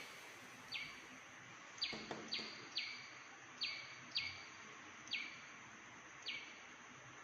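A bird chirping about eight times at irregular intervals. Each chirp is a short, sharp call that drops quickly in pitch. The chirps are faint, over a thin steady high-pitched hiss.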